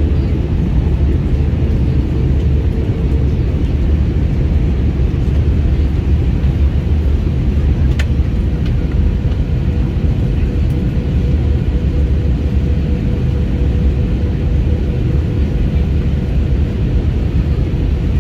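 Airliner cabin noise in flight: the steady low rumble of jet engines and airflow heard from inside the passenger cabin, with a faint steady hum and one brief click about eight seconds in.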